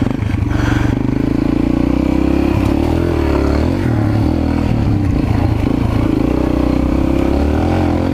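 Mini bike's small engine running under throttle, its pitch rising and falling a little as the revs change, with some rattling from the bike over rough ground.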